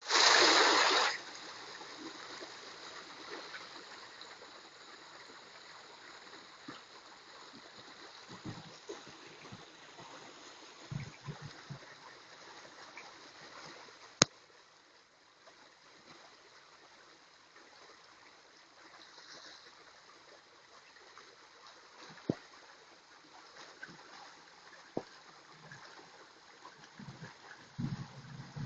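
Rainwater running along a street, a steady rushing and gurgling, with a loud rush of noise in the first second and a sharp click about halfway through.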